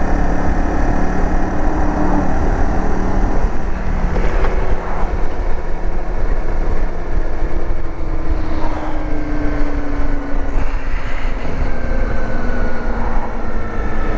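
Dirt bike engine running steadily under way, its note easing slowly lower through the middle.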